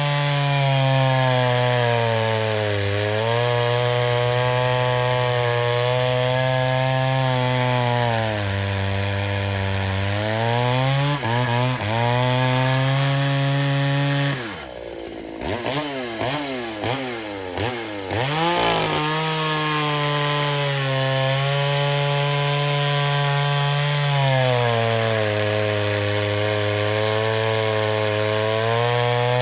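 Pioneer Farmsaw two-stroke chainsaw with a 28-inch bar running at high throttle in a cut, its pitch sagging and recovering several times as the chain bites into the wood. About halfway through, the throttle is let off and the engine drops to a low speed for a few seconds, with a few quick revs, before it comes back up to full speed.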